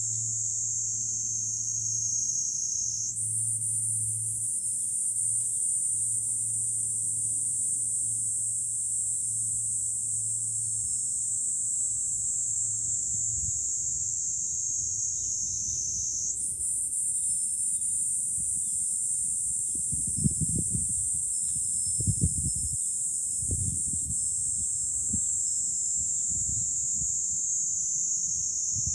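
Chorus of cicadas shrilling in summer, a dense high drone whose pitch slides slowly downward and jumps back up twice. In the second half, wind gusts rumble on the microphone.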